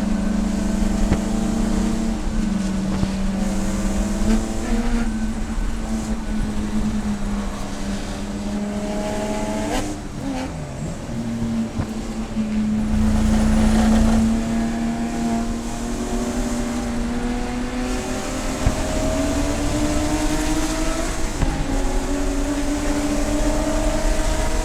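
Race car engine running hard at a steady high pitch. About ten seconds in, the pitch drops sharply and climbs back, as with a lift or downshift, and the pitch rises again near the end as the car accelerates.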